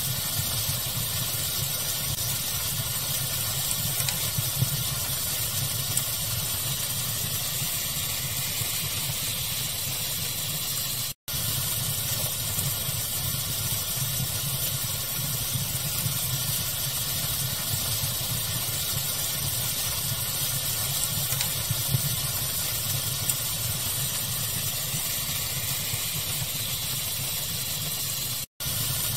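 Steady pink-noise hiss of a fire ambience track, with a few faint crackling pops. The sound cuts out for an instant twice, about eleven seconds in and near the end.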